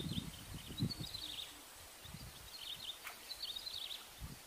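Faint bird chirping in short, twittering phrases repeated several times over low outdoor background noise. Some low rustling noise in the first second and a single sharp click about three seconds in.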